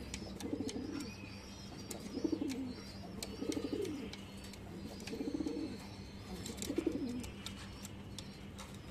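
Domestic Kanthi Tota pigeon cooing, five low throaty coos about a second long, spaced roughly a second and a half apart.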